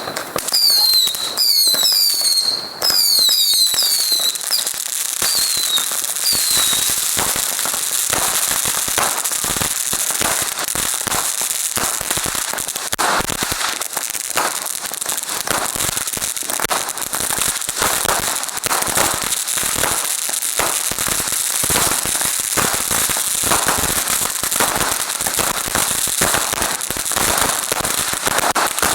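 Fireworks going off: a quick succession of short falling whistles for the first several seconds, then a dense, continuous crackle of many small rapid pops and bangs.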